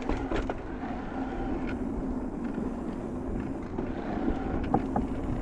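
Electric mountain bike rolling along a dirt trail: steady tyre and riding noise with a few sharp knocks and rattles, a couple near the start and more near the end.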